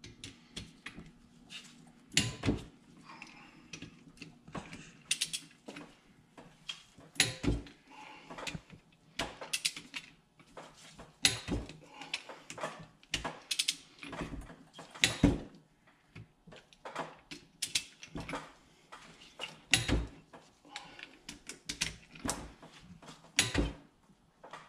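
Torque wrench on the cylinder head bolts of a Polaris 600 CFI two-stroke twin, ratcheting and giving a sharp click every second or so as the twelve bolts are brought to torque in sequence.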